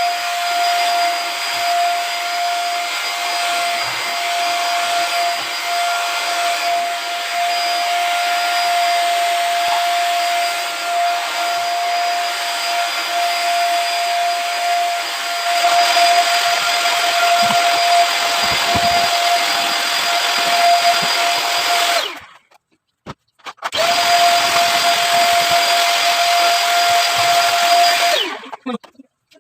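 Pensonic vacuum cleaner motor running with a steady high whine; it is switched off about two-thirds of the way in, back on about a second and a half later, and off again near the end.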